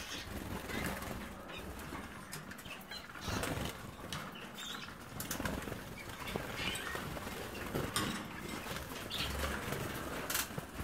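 Young canaries fluttering and flapping their wings in irregular bursts.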